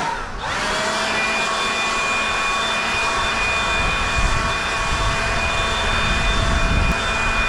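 Leaf blower spinning up and running steadily at full speed, a loud rush of air with a high fan whine.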